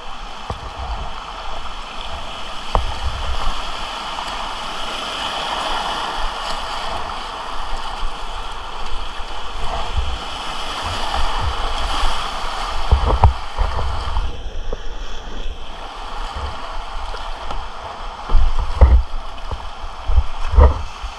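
Whitewater rapids rushing steadily around a kayak, with several low thumps and knocks, the loudest near the end. The sound goes briefly muffled about fourteen seconds in.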